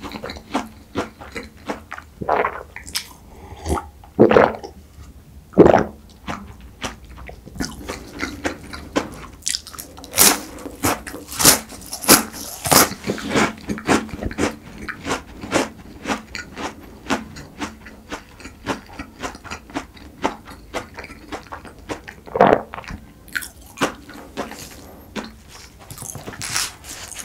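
Close-miked chewing and biting of flaky pastry: a run of irregular crisp crunches and wet mouth sounds, with a few louder crackles.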